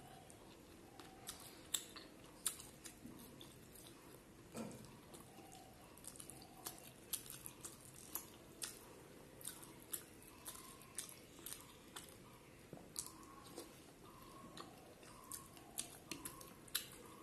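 A person chewing soft mutton fat curry and rice, heard as irregular sharp mouth clicks and smacks a few times a second. Fingers work the rice and curry on the plate.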